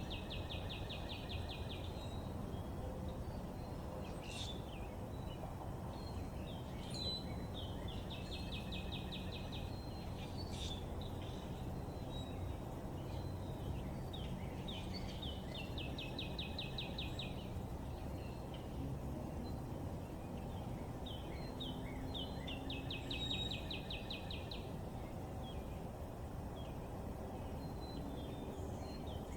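A songbird repeating the same short song about every seven or eight seconds: a few notes running into a fast, even trill. A steady low background rumble runs underneath, with faint chirps from other birds.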